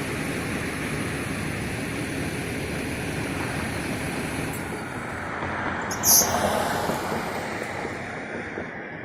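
Fire engine running close by, a steady vehicle rumble and hiss, with a brief high squeak about six seconds in; the sound fades near the end.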